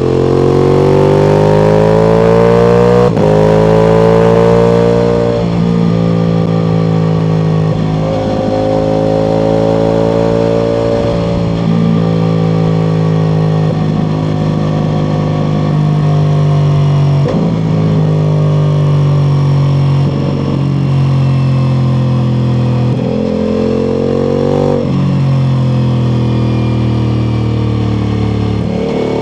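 Ducati Multistrada V4 Pikes Peak's V4 engine, with an Akrapovic exhaust, riding under load: the engine note climbs and eases with the throttle, broken briefly by gear changes several times.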